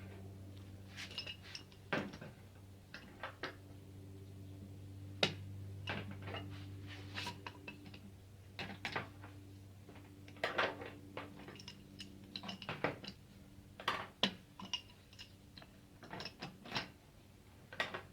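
Irregular light metal clinks, taps and rattles from hand tools working on the sheet-metal casing of an old electric water heater, over a steady low hum.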